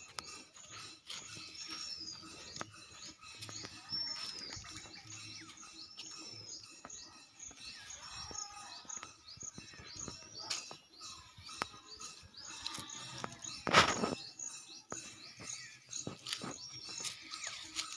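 A bird repeating a short, high whistled call that rises then falls, about every two seconds, over scattered light clicks. A loud thump comes about 14 seconds in.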